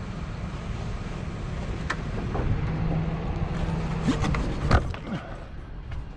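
Crane truck's engine running steadily during a lift. A steady hum comes in for a second or two in the middle, and a few sharp knocks sound near two seconds and again around four to five seconds in.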